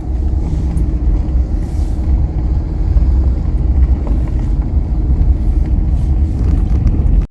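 Steady low rumble of road and wind noise from a car driving, heard from inside or at the window of the moving car. It cuts off suddenly near the end.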